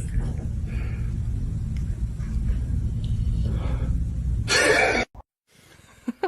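A steady low rumble, with a short louder rush of noise about four and a half seconds in that then cuts off abruptly.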